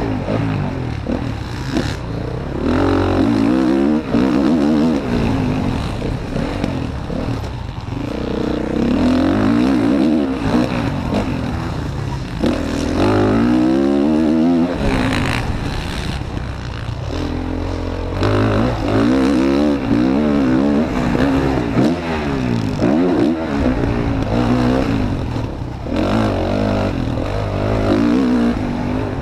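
Motocross bike engine revving hard and repeatedly climbing in pitch, then dropping back as the throttle is chopped and gears change, over and over through the run.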